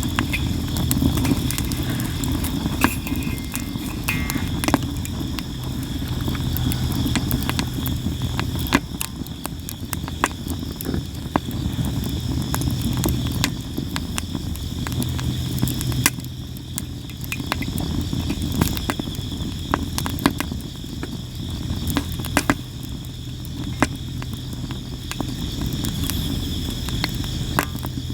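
Sawara cypress firewood burning, crackling and popping with frequent sharp snaps. Steady insect chirping and a low rumble run beneath it.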